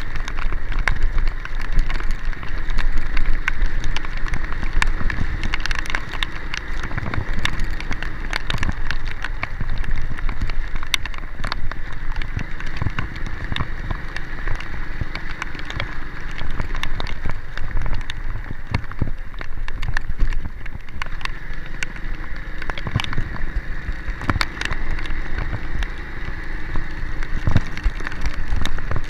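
Heavy rain, with many sharp drop ticks close to the microphone, over the steady low rumble of a moving vehicle.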